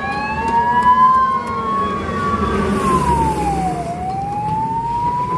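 Fire engine siren wailing, its pitch rising slowly, holding, then falling about three seconds in before rising again, over a low rumble.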